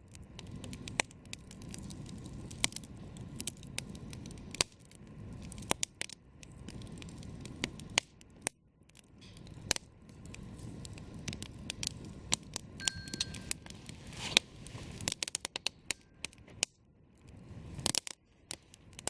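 Wood campfire crackling, with sharp irregular snaps and pops over a low, uneven rumble. A brief high whistle comes about two-thirds of the way through.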